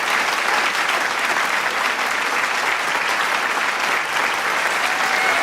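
Large crowd clapping and applauding steadily, with a few voices cheering and whooping near the end.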